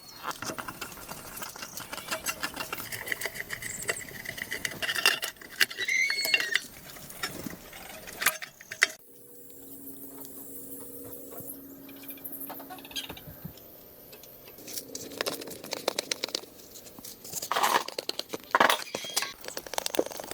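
Hand tools and metal parts clinking, tapping and scraping in an irregular run of small knocks and clicks, with brief squeaks around the middle.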